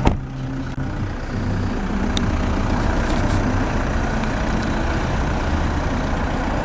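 Toyota Hilux 2.5-litre turbo-diesel engine idling steadily.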